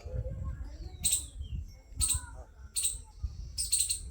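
A bird chirping repeatedly, with short, sharp, high calls about once a second, over a low rumble.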